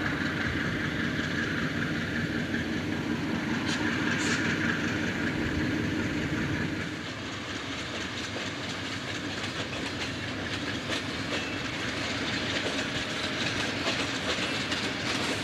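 Freight train rolling past, with a steady low hum that drops away about seven seconds in, then the clickety-clack of wheels over rail joints. This is added railroad background audio, not sound recorded with these pictures.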